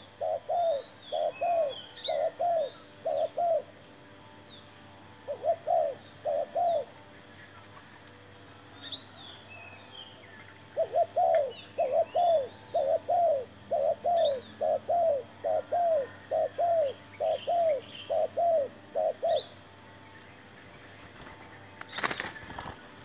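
Spotted dove cooing in runs of quick, evenly repeated notes: a few short runs at first, then a long unbroken series in the middle, while small birds chirp faintly higher up. A single sharp knock sounds near the end.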